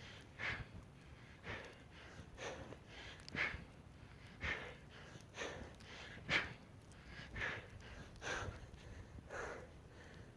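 A person breathing hard during exercise: short, forceful breaths, the strongest about once a second with weaker ones in between.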